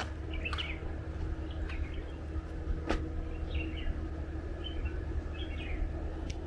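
Birds chirping in short, scattered calls over a steady low rumble, with one sharp click about three seconds in.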